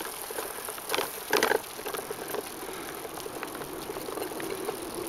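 Bicycle rolling along a road: steady tyre noise with light rattling, and two brief louder sounds about a second in.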